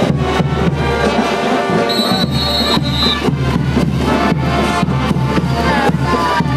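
Live brass band playing diablada music: trumpets and trombones over a steady beat of drums and cymbals, about three strokes a second.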